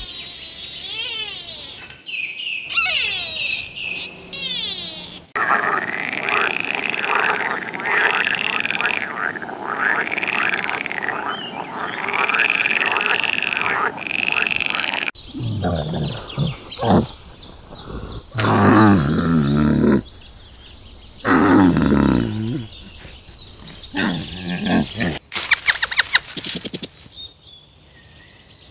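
Green water frogs calling: a dense chorus of repeated rising-and-falling calls, then louder, lower croaks in separate bursts of a second or so. Short high chirps come at the start and a fast run of clicks near the end.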